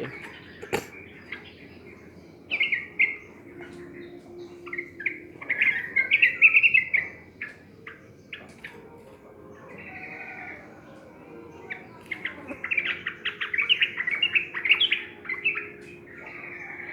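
Yellow-vented bulbul (trucukan) singing in bursts of quick chirping notes, loudest about six seconds in and in a longer run from about twelve seconds. It is a trigger call meant to set a silent caged bird singing. A sharp click comes just under a second in.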